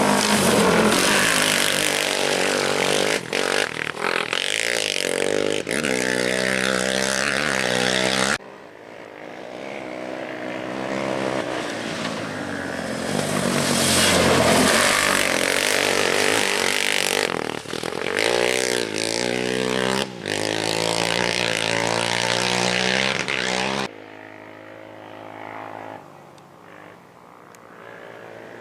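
Off-road race engines revving hard as the machines pass, climbing in pitch again and again through the gears. The sound cuts off abruptly about 8 seconds in and again near 24 seconds, and is quieter after the second cut.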